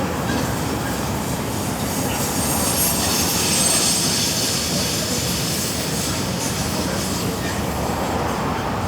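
Freight train rolling past on a mountain downgrade, its wheels running steadily on the rails, with a high wheel squeal that swells between about two and six seconds in.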